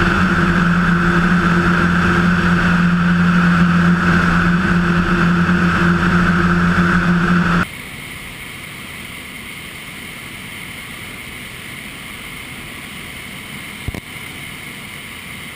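Cessna 177 Cardinal's engine and propeller droning steadily in cruise, heard inside the cabin. About halfway through the sound cuts abruptly to a much quieter, steady hiss.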